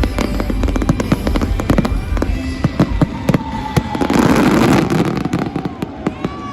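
Fireworks shells bursting in rapid, overlapping bangs over a deep rumble, with a dense crackling flurry about four seconds in. The bangs thin out near the end. Music plays underneath.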